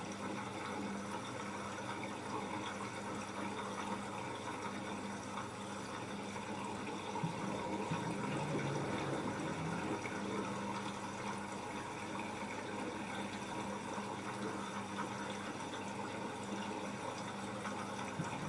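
Water running and sloshing inside an LG F10A8HDS5 front-loading washing machine during its wash cycle, with a low hum that comes and goes.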